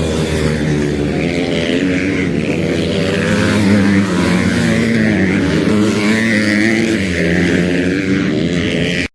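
Several motocross bikes' engines running and revving together, their pitches rising and falling over one another. The sound cuts off abruptly near the end.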